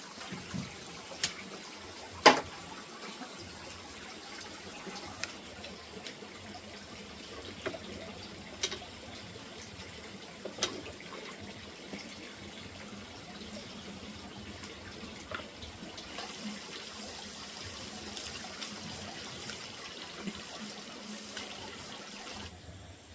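Water running steadily, with a few sharp clinks or knocks scattered through it; the loudest comes a little over two seconds in.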